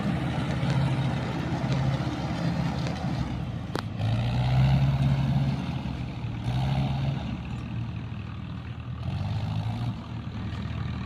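Mahindra 585 DI tractor's diesel engine running as it pulls a loaded trolley, its note swelling and easing several times. A single sharp click sounds a few seconds in.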